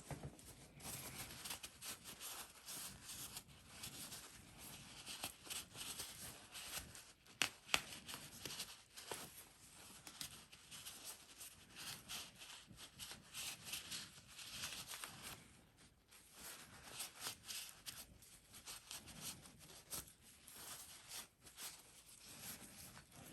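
Scratchy rubbing and scraping on and off as the carbon dust is cleaned out of a Denso starter's brush end, with small clicks of metal parts and one sharper click about seven seconds in.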